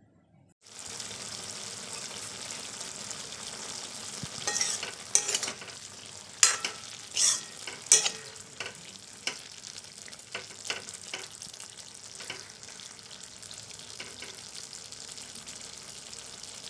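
Mustard greens with tomato and chilli sizzling in a wok, a steady hiss that starts suddenly just under a second in. A metal spatula stirs them, clinking and scraping against the pan, most often between about four and twelve seconds in.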